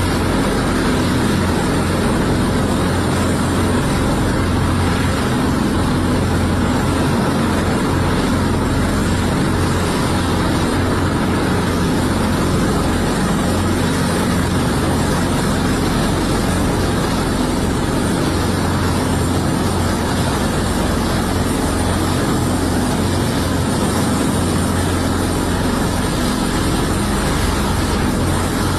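Helicopter turbine engines and rotor running: a loud, steady drone with a deep low hum that holds without change.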